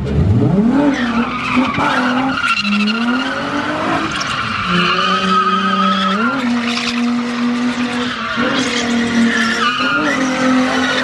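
A car doing donuts: its engine held at high revs, stepping up and down in pitch, while the rear tyres squeal continuously against the pavement.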